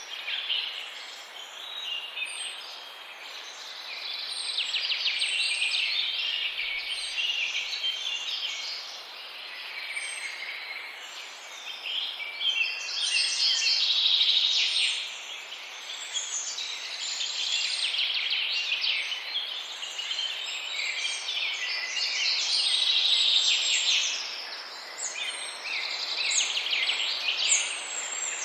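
A chorus of many small birds chirping and calling together, swelling louder twice, with a repeated high, thin note over it.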